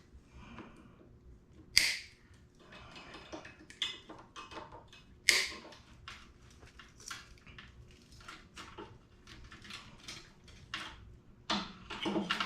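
Metal parts and hand tools being handled during brake hub work: a run of small clicks and knocks, with two sharper clanks about two and five seconds in.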